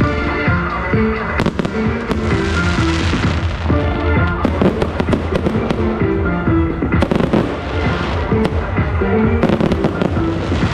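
Fireworks bursting and crackling in several clusters of rapid sharp cracks, over loud music playing throughout.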